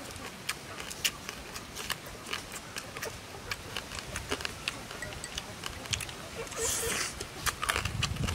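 Close-up eating sounds: chewing and biting crisp roasted field-mouse meat, with many small irregular crackles and clicks as the meat is torn apart by hand, and a short hiss about two-thirds through.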